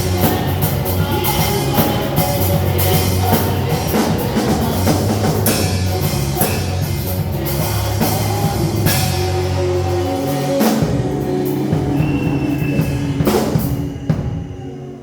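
Band music with a drum kit and a steady bass line, dying away near the end.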